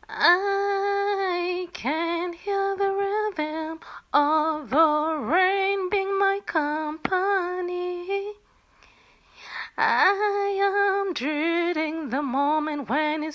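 A woman singing solo a cappella: one voice in held, wavering notes, with a short break about eight seconds in.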